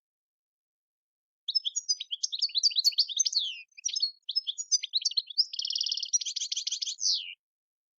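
European goldfinch singing a long song phrase of fast twittering notes that starts about a second and a half in. The phrase includes a buzzy trill near the end and finishes on a falling note.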